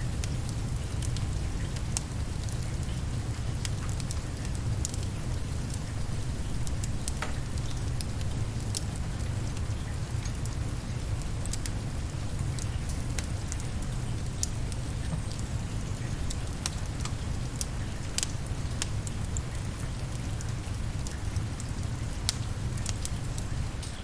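Steady rain with a low rumble underneath, and scattered sharp crackles from a wood fire burning in a fireplace.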